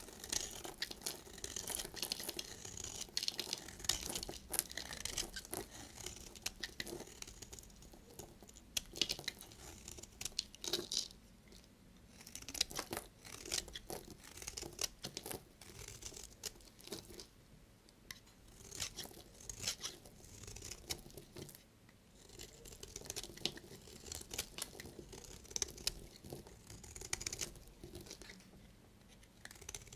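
Knife cutting through dry bar soap: a run of crisp, uneven crackles and scrapes with short pauses between cuts.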